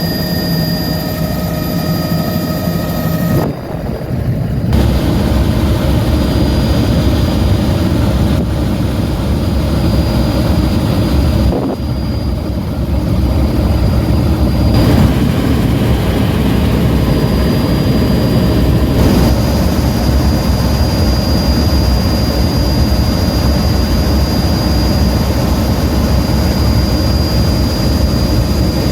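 Helicopter in flight: a loud, steady drone of rotor and engine with a high, steady whine. The sound changes abruptly about three and a half seconds in and again around twelve seconds.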